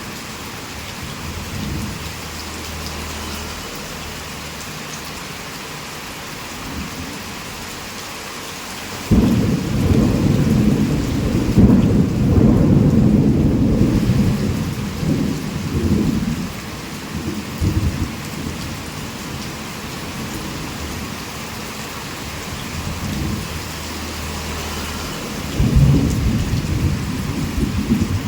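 Heavy rain falling steadily. About nine seconds in a sudden loud clap of thunder breaks out and rumbles on for several seconds, and another thunder rumble starts near the end.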